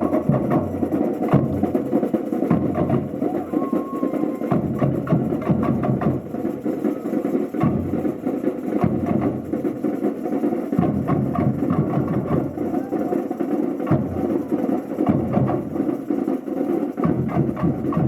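Samba percussion band playing a fast, dense rhythm of drum and clicking hits, with deep bass drums dropping out and coming back every few seconds.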